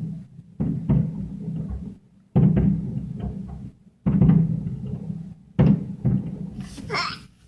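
Aerial fireworks shells bursting in a series of deep booms, about six over several seconds, each rumbling away with a long echo.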